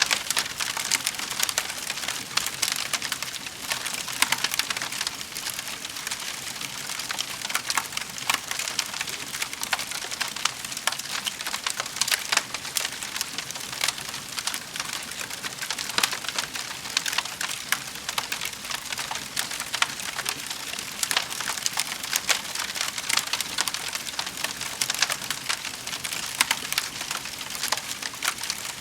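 Wood fire crackling in a fireplace: a dense, continuous run of small crackles with frequent louder pops.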